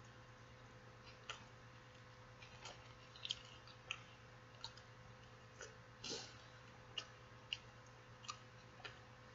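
Person chewing a chicken taco with the mouth close to the microphone: faint, irregular wet mouth clicks and smacks, about a dozen scattered through, over a faint steady hum.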